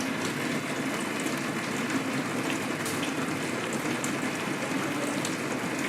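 Rain falling steadily: an even hiss of water with scattered faint ticks of drops.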